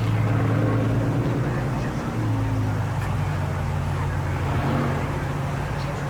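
Car engine running steadily, a low even hum that holds its pitch.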